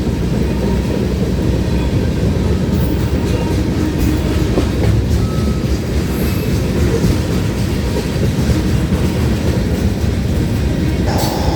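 Freight train rolling past close by: a steady, loud low rumble of wheels on rail with clickety-clack. A brief higher-pitched sound joins near the end.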